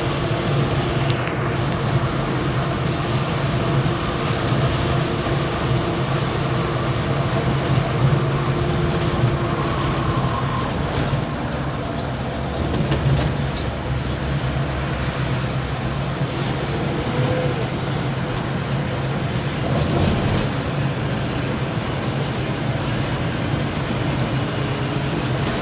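Mercedes-Benz double-decker coach on the move: steady engine hum and road rumble.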